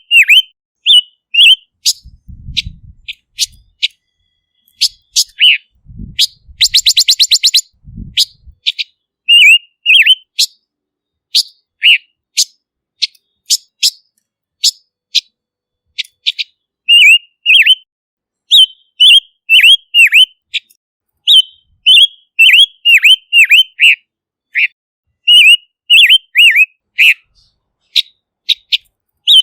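Silver-eared mesia calling: runs of short, loud, quick whistled notes that dip in pitch, repeated several times a second with gaps between runs. Sharp ticks are scattered among them, and a fast clicking rattle comes about seven seconds in.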